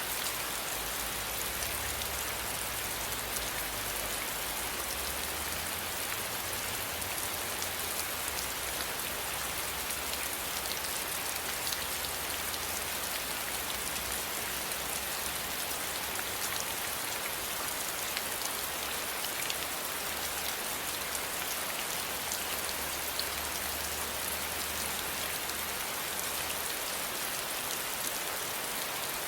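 Steady rain falling, an even hiss dotted with fine drop ticks, with a faint low rumble coming and going underneath.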